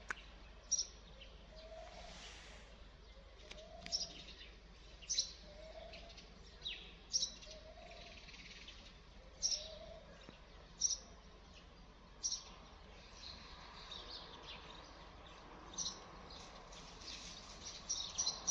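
Small birds chirping, short sharp high notes every second or two that come thicker near the end. During the first half a softer, lower call repeats about every two seconds.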